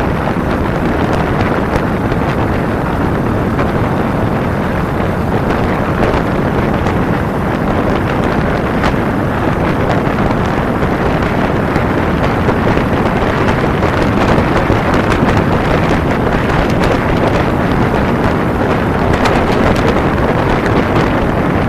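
Steady wind noise buffeting the microphone of a camera riding on a moving motorcycle, a dense rushing hiss that hides any engine note.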